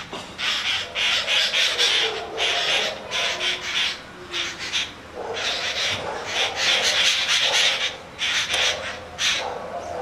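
Harsh, raspy bird calls in rapid runs of notes, broken by a few short pauses.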